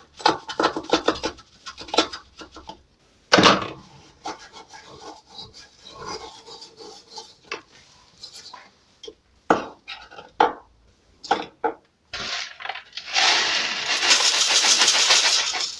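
Scattered clicks, knocks and clatter of dishwasher parts being handled. Near the end comes a steady rushing hiss lasting about two and a half seconds, the loudest sound here.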